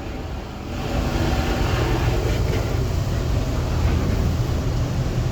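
Automatic car wash machinery working on the car, heard from inside the cabin: a steady rushing wash with a low rumble, growing louder about a second in.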